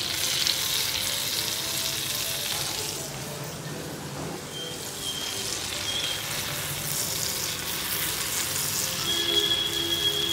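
Food frying in butter on a hot tawa (flat griddle): a steady sizzle, stronger in the first few seconds, easing off, then rising again later on.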